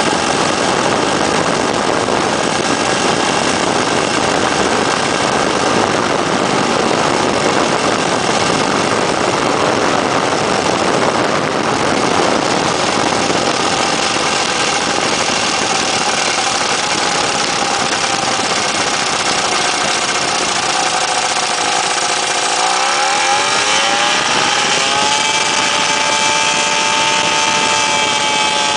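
Weedhopper ultralight's small two-stroke engine and propeller running steadily under power, with a broad rushing noise. About twenty-two seconds in, the engine note dips sharply and climbs back up.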